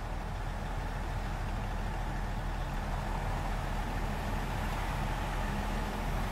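Heavy engine of road-paving machinery running steadily at a constant speed, with a low even drone.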